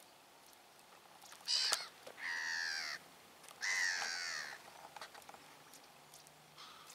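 A bird calling harshly: a short rasping note, then two longer drawn-out calls that fall slightly in pitch.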